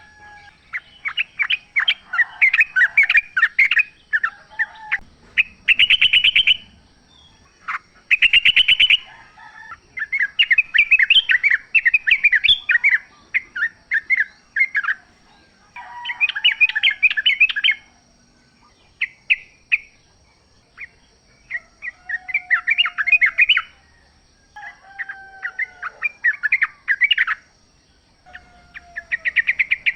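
Yellow-vented bulbul (trucukan) singing in the wild: bubbly, chattering song phrases repeated every few seconds, with a few lower sliding notes between them. Two brief rapid rattles come near the start, and a faint steady high whine runs behind.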